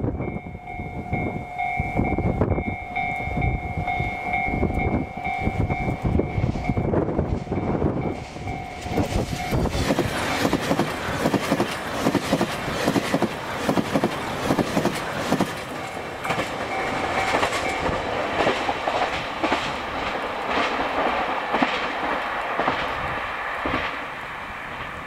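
Passenger train passing close by. A steady two-pitch tone sounds for about the first ten seconds. Then the coaches go past with a dense, rhythmic clacking of wheels over the rails, easing off near the end.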